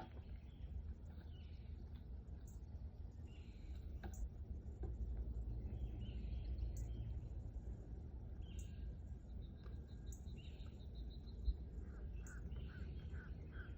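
Outdoor ambience: birds chirping, with one short even trill near the middle, over a steady low rumble, and a few light clicks including one sharp tap late on.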